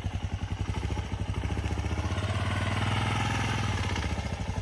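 Single-cylinder dual-sport motorcycle engine running at low revs with an even, pulsing beat. The revs build a little in the middle, then ease off.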